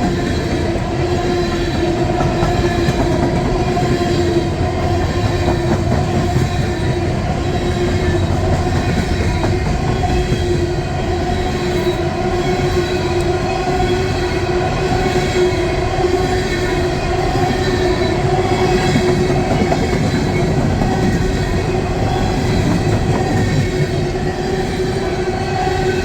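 Empty three-bay coal hopper cars rolling past at speed: a steady, loud rumble of wheels on the rails with a continuous high steady wheel squeal running over it. The train is accelerating as it passes.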